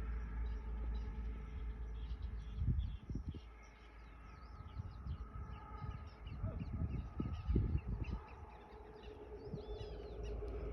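Small birds chirping and calling over a steady low rumble, with a few dull low bumps about three seconds in and again around seven seconds.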